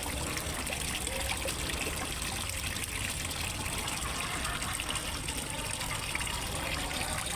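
Steady trickle and gush of falling water into a fish pond, an even, unbroken running-water sound.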